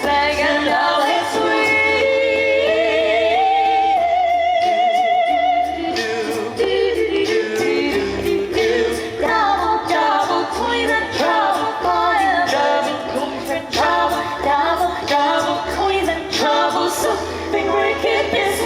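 A small choir singing a cappella: several voices in harmony, with vibrato on the held notes.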